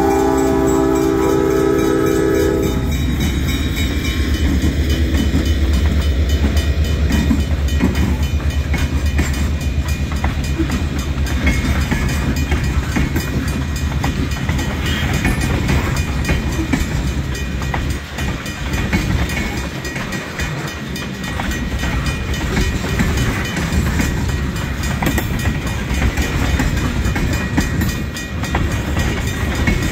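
A freight train's locomotive air horn sounds a chord of several tones that cuts off about three seconds in. The diesel locomotives then rumble past, followed by a long string of tank cars rolling over the rails with steady wheel clicks.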